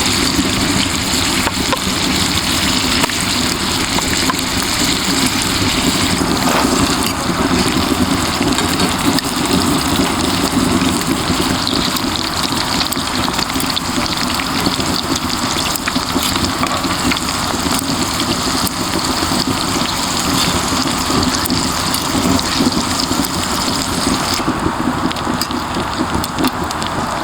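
Beef gopchang and daechang (small and large intestines) sizzling and spitting in a hot pan: a loud, steady sizzle dense with small crackles. The high hiss thins out near the end.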